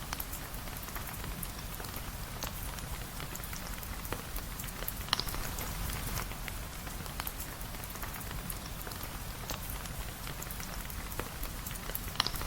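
Steady rain, with scattered sharp clicks and ticks of drops over a constant hiss and a low rumble.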